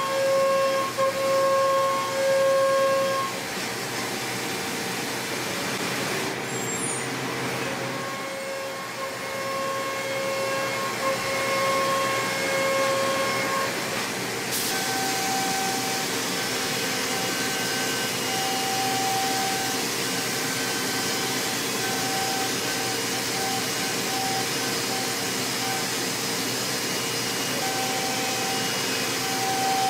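5-axis CNC machine milling aluminium at high speed: the cutter makes a steady singing tone over a hiss. The pitch jumps to a new note a few times as the cut changes, and the hiss grows louder about halfway through.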